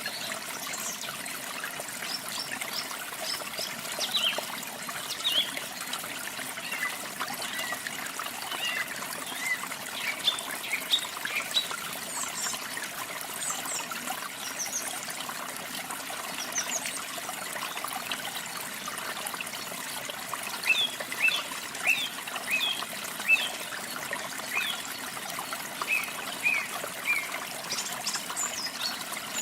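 Running water trickling and splashing steadily, with many small birds singing short chirps and quick high notes over it.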